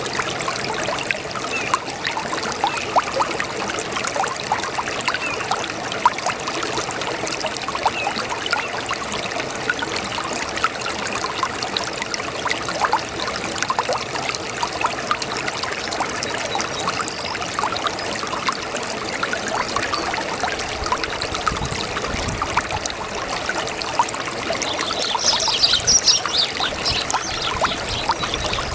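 A small brook babbling, with water trickling and splashing over stones in a steady stream of small gurgles and splashes. A brief burst of high chirping comes near the end.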